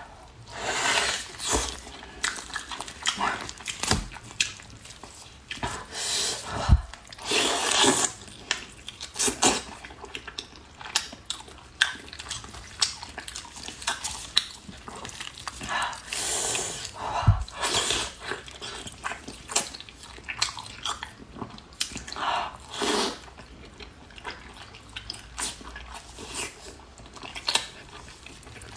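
A person chewing and biting braised pork knuckle: an irregular run of short clicks and louder bursts of chewing noise.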